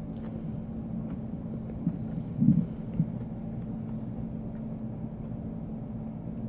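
Close-up chewing of food over a steady low hum, with a few faint mouth clicks and a louder soft bump about two and a half seconds in.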